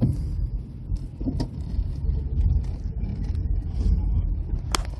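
Car driving slowly, heard from inside the cabin: a steady low rumble of engine and tyres, with a few light knocks and one sharp click near the end.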